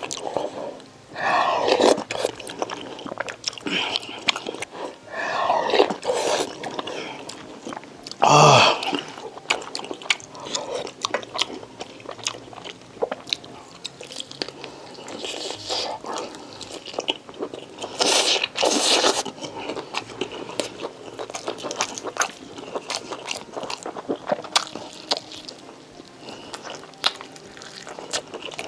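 Close-miked eating: a person chewing and biting into food, with many small wet clicks throughout and a few louder, longer sounds about 1, 5, 8 and 18 seconds in.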